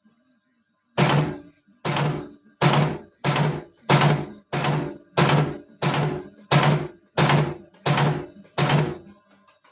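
Svit eyelet-punching machine cycling repeatedly: twelve strokes in a steady rhythm, about three every two seconds, each a thunk that dies away within about half a second.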